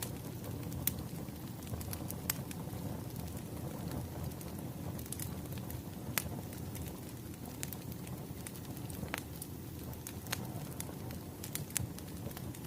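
Wood fire burning: a steady low rumble of flames with irregular sharp crackles and pops.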